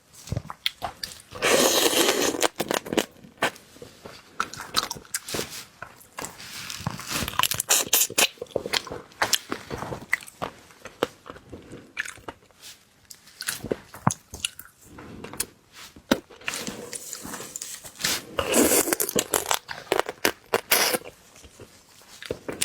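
Close-miked person eating seafood: bites and chewing with many small crunches. Longer, louder spells of crunching come about a second and a half in and again near the end.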